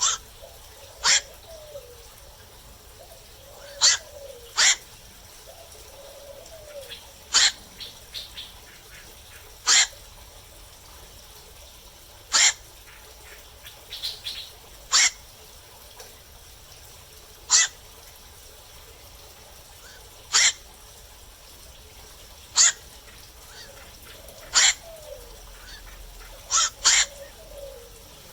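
Black-crowned night heron calling at night: short, sharp single calls repeated about every two to three seconds, now and then two in quick succession.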